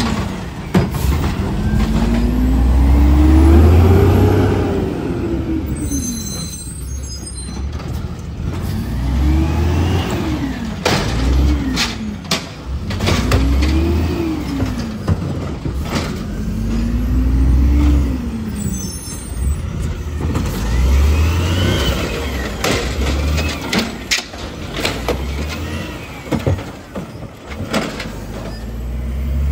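Garbage truck's diesel engine revving up and falling back again and again. Two short bursts of air-brake hiss and several sharp clanks come through the rumble.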